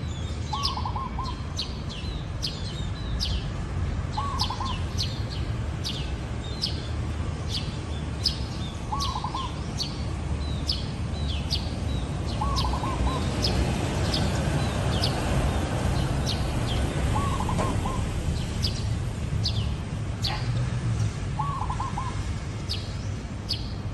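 Zebra dove cooing: a short staccato run of several notes, repeated about every four seconds (six times). Other small birds chirp rapidly in high, sharp notes throughout, over a steady low rumble.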